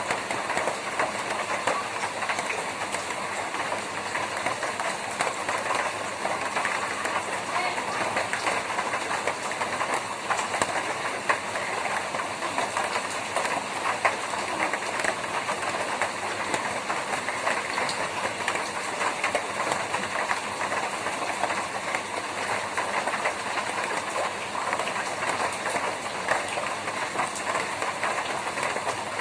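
Steady rain drumming on a corrugated tin roof: a dense, even patter of drops hitting sheet metal, with no break or change.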